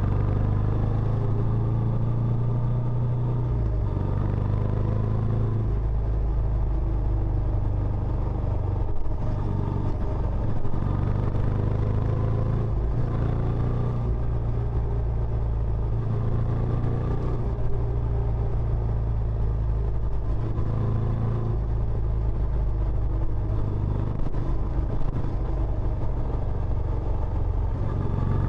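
Benelli Imperiale 400's single-cylinder engine running through its stock exhaust: a steady low exhaust note whose pitch shifts slightly now and then.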